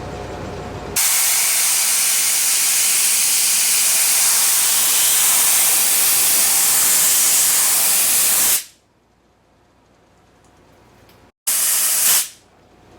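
Compressed air hissing from an air tool in two blasts: a long one of about seven and a half seconds that starts and stops abruptly, then a short one of under a second near the end.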